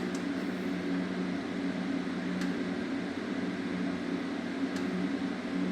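Chevrolet K20 truck engine running with its valve covers off, a steady hum with a few faint ticks. The owner is chasing a tapping in the valvetrain that he takes for a lifter.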